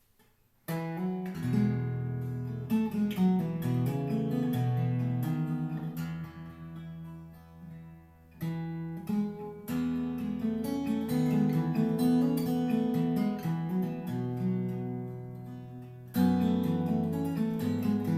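Solo acoustic guitar playing the instrumental introduction to a folk song: strummed chords with picked melody notes, starting about a second in and fading briefly before strong fresh chords come in about halfway through and again near the end.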